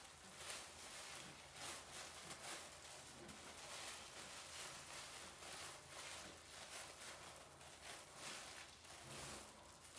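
Faint, irregular rustling and scratching strokes of hair being worked by hand, several a second, over a low steady hum.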